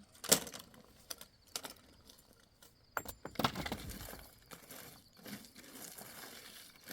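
A few sharp clinks and knocks of hard objects being handled.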